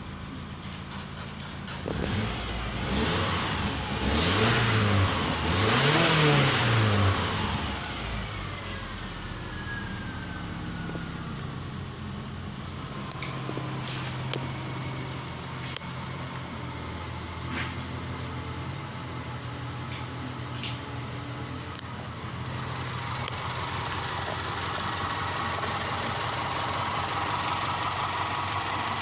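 Subaru Liberty boxer engine revved up and back down twice, then running at a steady idle, with a few sharp clicks over the idle.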